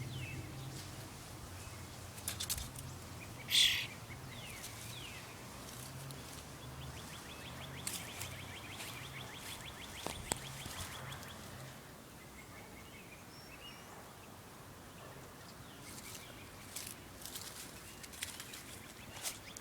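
A young bird giving a few short, high chirps, with a faint rapid ticking call partway through, over a low hum.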